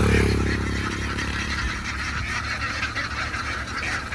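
A large flock of ducks quacking continuously in a dense chatter. An engine rumbles loudest at the start and fades away over the first second or so.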